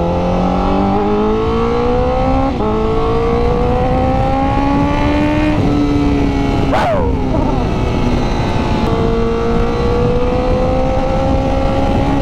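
Honda CBR1000RR-R Fireblade inline-four engine pulling hard in first gear with a rising pitch. It upshifts to second about two and a half seconds in and climbs again, then settles to a lower, slowly rising tone. Wind rush runs throughout, and there is a brief sharp noise about seven seconds in.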